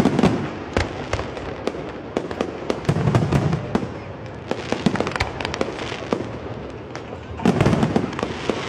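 Competition fireworks display: a dense run of sharp bangs and crackling from exploding aerial shells, with heavier clusters of bursts about three seconds in and again near the end.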